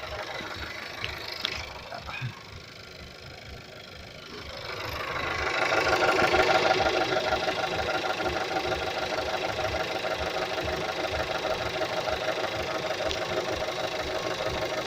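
Skoda Octavia engine idling, growing louder about five seconds in, with a fast rhythmic grinding from under the hood: the accessory belt drive noise that remained after the alternator belt tensioner pulley was replaced under warranty.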